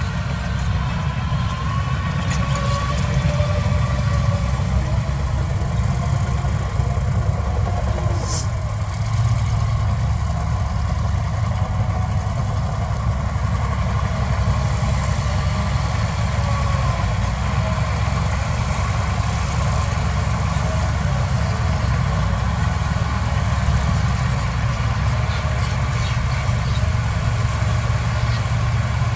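Heavy diesel earthmoving machinery running steadily with a low, even rumble, and a fainter higher tone over it that wavers up and down in pitch. There is one short sharp click about eight seconds in.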